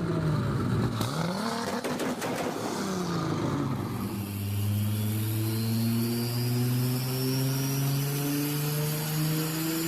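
Toyota Supra MK4's inline-six engine revved up and down several times with a few sharp cracks. From about four seconds in it pulls steadily under load, its pitch slowly rising, with a thin high whistle climbing alongside.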